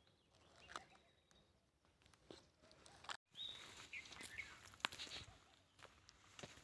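Near-silent dry forest: a few short bird chirps in the second half and faint footsteps on dry leaf litter. The sound cuts out completely for a moment just after the middle.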